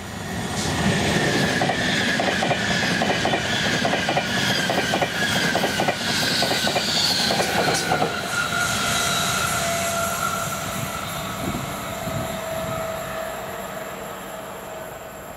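A train passing at speed, its wheels clacking rapidly over the rail joints, with a high whine that slowly falls in pitch. The clacking stops about eight seconds in and the train fades away.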